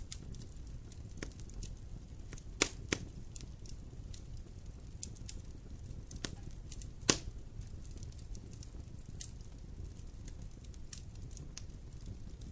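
Wood fire crackling in a fireplace: scattered small ticks over a low steady rumble, with two sharp pops close together about two and a half seconds in and a louder pop about seven seconds in.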